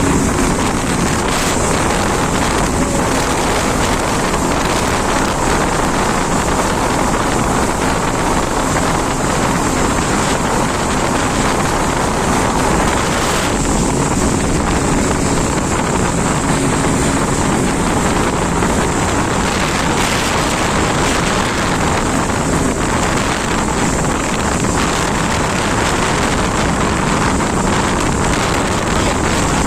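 Jet ski engine running steadily while riding over water, with wind buffeting the microphone.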